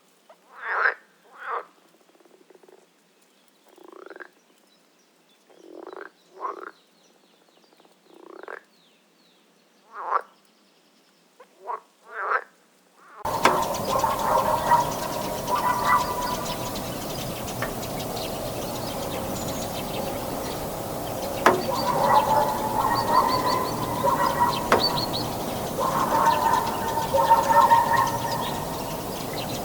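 Frogs croaking: a string of separate short croaks, then about halfway through a change to a noisier outdoor recording with several calls overlapping.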